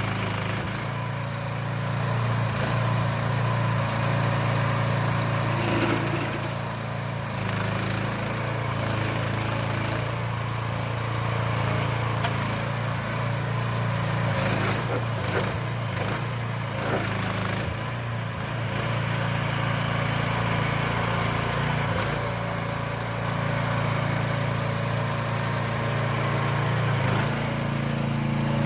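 A 2023 AGROTK H15 mini excavator's small engine running steadily, with slight rises and falls in level.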